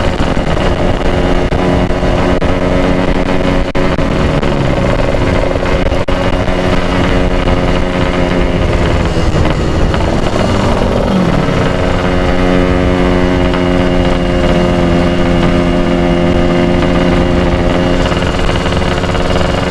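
Kawasaki Ninja SS 150 two-stroke single engine running at cruising speed under the rider. Its note drops about halfway through as the throttle eases, then climbs back and holds steady. The rider says the engine has become noisy and is due for an oversize piston.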